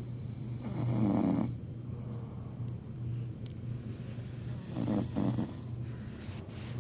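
A person snoring: two rasping snores about four seconds apart, over a steady low hum.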